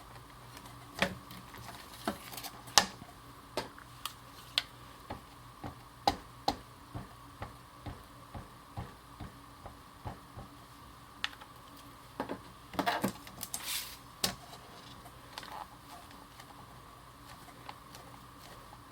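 Light, irregular taps and clicks of a rubber stamp and ink pad being handled on a craft table, about one or two a second. A short flurry of quicker knocks and rustling comes about two-thirds of the way through.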